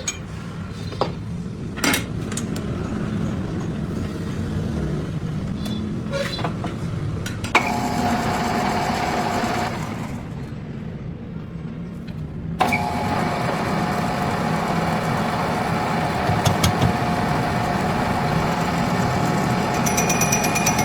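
A few sharp knocks, then a motor-driven machine with a steady hum that switches on abruptly. It stops for about three seconds and starts again abruptly.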